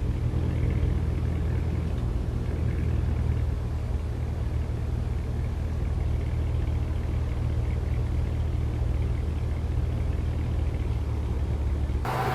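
The 2023 Cadillac Escalade V's 6.2-litre supercharged V8 running steadily at even, low revs with a deep rumble. Just before the end, a louder, fuller engine sound sets in.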